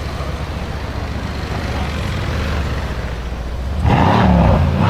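Car engine and exhaust running with a steady low rumble, becoming much louder about four seconds in.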